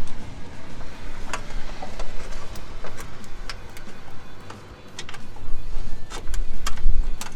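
Scattered sharp metallic clicks and clinks of hand tools and sockets being handled, over a low rumble that grows louder about five seconds in.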